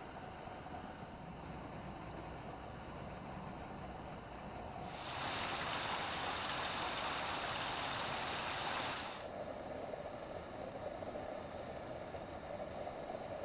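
Steady rushing of flowing creek water. It turns abruptly louder and brighter about five seconds in, holds for about four seconds, then drops back just as suddenly.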